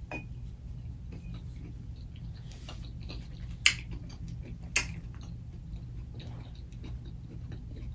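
Close-miked chewing of a veggie tot: soft wet mouth clicks throughout, with two sharper smacks a little past halfway, about a second apart, over a low steady hum.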